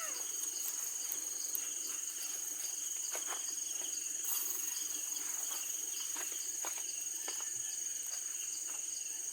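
Night chorus of crickets: a steady, high-pitched continuous trill, with a few faint scattered clicks over it.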